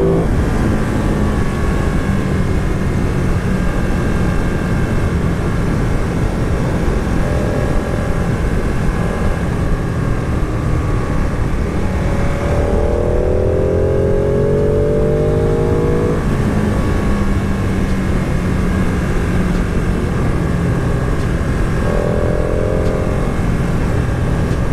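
A twin-cylinder sport motorcycle heard from on board while riding, its engine running under a steady rush of wind and road noise. About halfway through, the engine note climbs in pitch for a few seconds as the bike accelerates, and it rises again briefly about a third of the way in and near the end.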